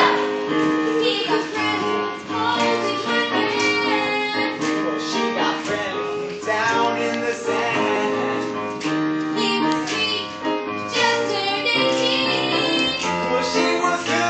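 A song: voices singing a melody over instrumental accompaniment.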